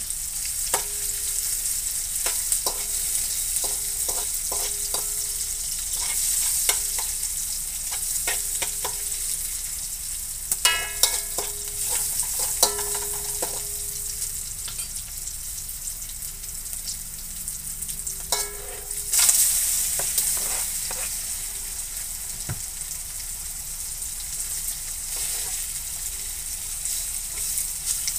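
Dried anchovies and chilli sizzling in hot oil in a wok, with a metal ladle scraping and tapping against the pan as it stirs. The sizzle surges loudly about two-thirds of the way through, as sliced tofu goes into the oil.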